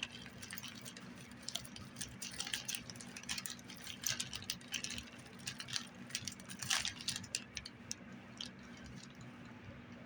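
Crinkly material handled by hand: irregular rustling and crackling with many small clicks, busiest in the middle and thinning toward the end.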